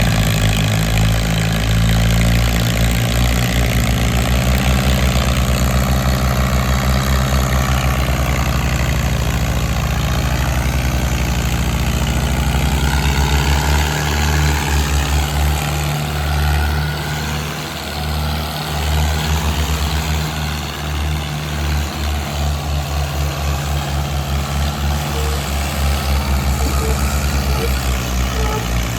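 Mahindra Arjun tractor's diesel engine running with a steady low throb, easing slightly for a few seconds around the middle.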